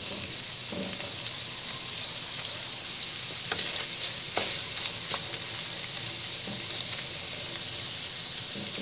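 Canned tuna chunks and minced garlic sizzling in butter in a nonstick wok, stirred with a wooden spatula. A steady frying hiss, with a few light knocks of the spatula against the pan around the middle.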